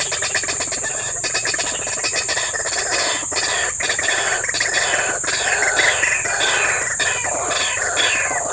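Outdoor wetland chorus: a steady high insect trill runs throughout. Over it comes a series of quick falling calls that builds from about three seconds in.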